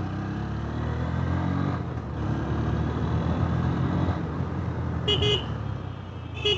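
Honda motorcycle engine running steadily while riding, heard from on the bike. A horn toots briefly twice near the end.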